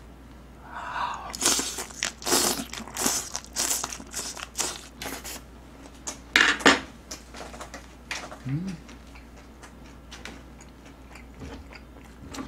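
Loud close-up chewing of a mouthful of boiled pork (bossam): a quick run of wet, smacking chews, one loud one, then slower, quieter chewing with a short hum part-way through.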